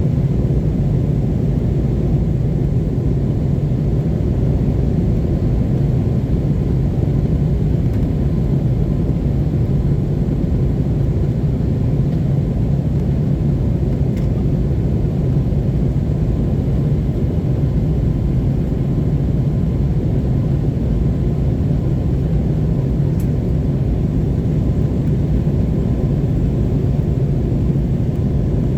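Airbus A321neo cabin noise in the climb after takeoff: a steady, loud, low rumble of jet engines and airflow heard from inside the passenger cabin.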